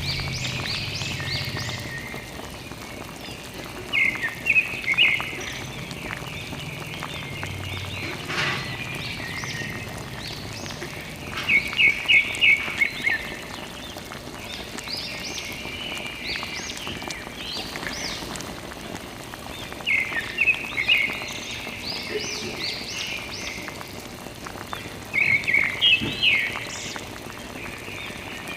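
Groups of rapid, high-pitched animal chirps recurring every few seconds over a steady background hiss.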